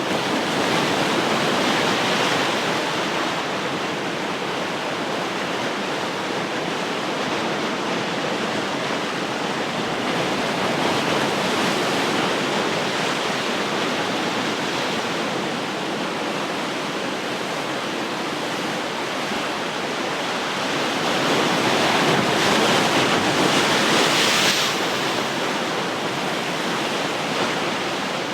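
Ocean surf: a steady wash of breaking waves, swelling a few times as larger waves break, the biggest about three quarters of the way through.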